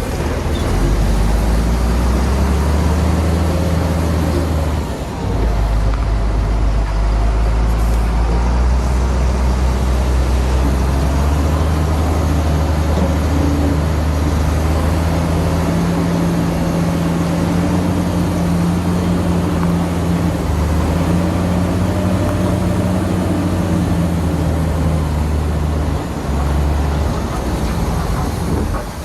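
Heavy diesel engines of earthmoving machinery running steadily under load, their pitch shifting a few times as they work, with a brief drop in level about five seconds in.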